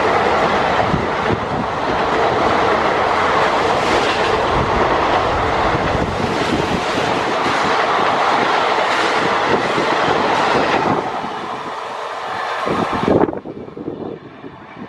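Indian Railways passenger train coaches passing close by at high speed, the wheels clattering over the rail joints in a rapid, dense rhythm under a loud rush of noise. The noise dies away near the end and then cuts off suddenly to a much quieter background.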